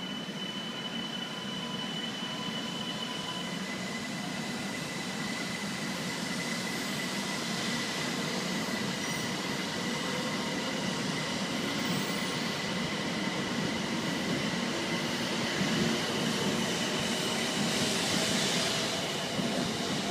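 Shinkansen bullet train running on the rails: continuous rushing train noise with faint steady high whines, growing slowly louder.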